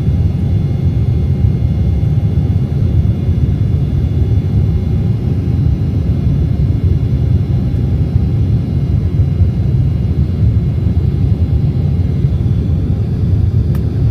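Steady low rumble of an Embraer E190 jet's turbofan engines and airflow in the climb after takeoff, heard inside the cabin, with a faint steady engine whine above it.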